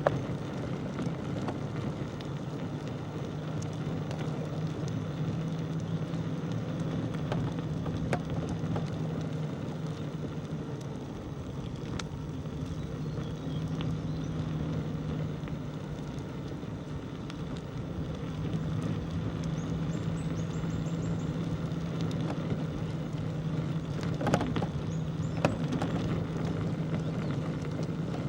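Steady rolling noise of a bicycle ride on a village road, with a constant low hum and scattered small clicks and rattles.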